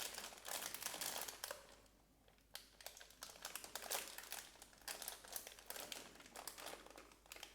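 Plastic snack bag crinkling as it is handled, folded over and clipped shut with a bag clip, in two spells of crackling with a short lull about two seconds in.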